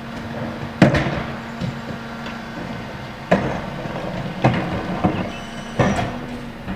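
Trash collection at a garbage truck: a string of sharp bangs and knocks, four of them loud, as cans and refuse are dumped, over the truck's steady engine hum.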